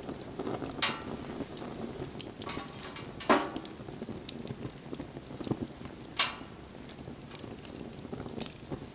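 Wood bonfire burning with a steady hiss and crackle, broken by three loud sharp pops, about one, three and six seconds in, among smaller snaps.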